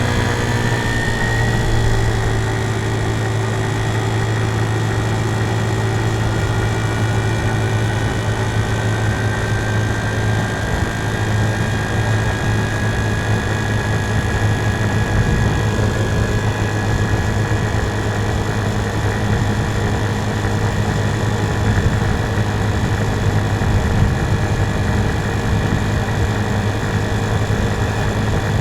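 A TaoTao 50cc scooter's small GY6-type four-stroke engine running under way. Its note climbs over the first second or two, then holds fairly steady, with a higher whine rising slowly in the middle.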